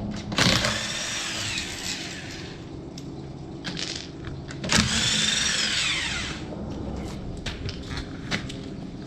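Power tool run in two bursts about four seconds apart, each with a high whine that falls in pitch as it spins down.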